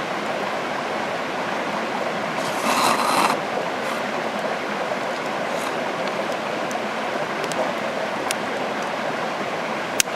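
Steady rushing noise with a few scattered sharp clicks. A louder rush swells about three seconds in, and a single sharp crack comes near the end.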